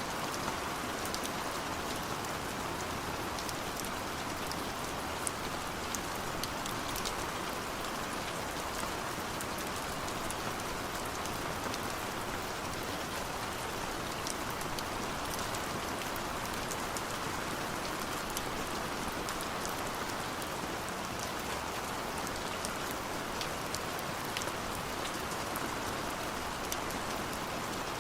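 Steady, even rain falling, with many small drop ticks scattered through it.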